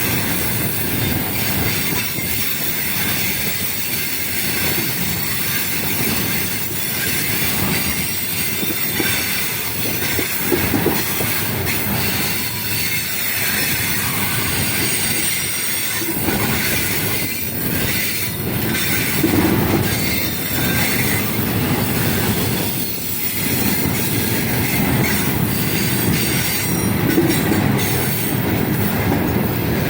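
Wagons of a long, heavy freight train rolling past: a steady rumble of wheels on rails with irregular clacks as wheels cross rail joints, more frequent in the second half.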